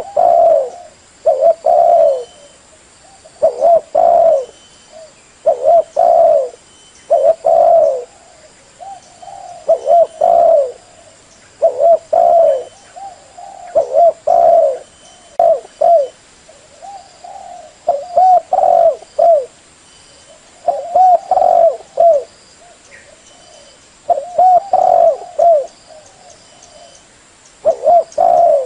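Female spotted dove cooing: short, arched coos in groups of two or three, repeating about every two seconds. It is a call played to excite decoy doves and draw wild males to a trap.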